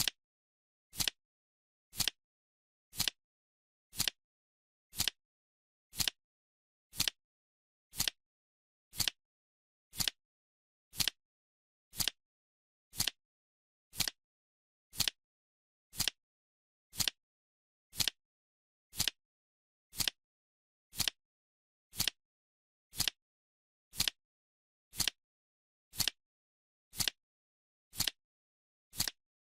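Countdown timer's clock-tick sound effect: one short, sharp tick every second, evenly spaced, with silence in between.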